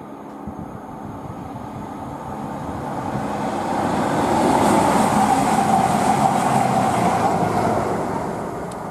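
CrossCountry Voyager diesel multiple unit passing at speed: engine and wheel noise build as it approaches, are loudest a little past halfway, then fade as it moves away. A whine near the peak dips slightly in pitch as the train goes by.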